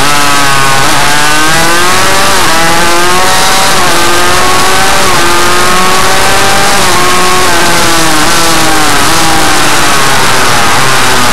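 Suzuki RM85 two-stroke single-cylinder engine of a minimotard pit bike being ridden hard. Its pitch climbs and then drops about six times as the revs rise and fall. It is very loud, filling the recording to its limit.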